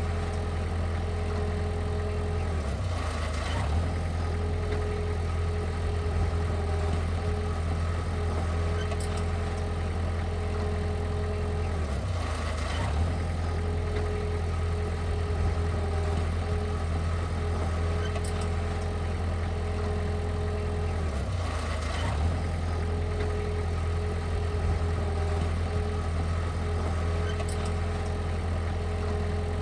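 Diesel engine of heavy earthmoving equipment running steadily at low revs, with a brief change in its note roughly every nine seconds.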